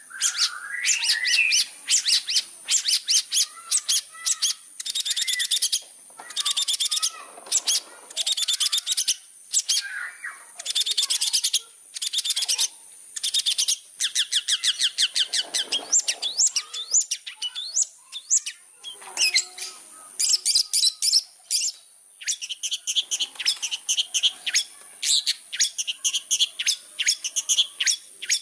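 Long-tailed shrike (cendet) in full, vigorous song: fast, harsh chattering runs of rapid scratchy notes in bursts of a second or two, broken by short pauses.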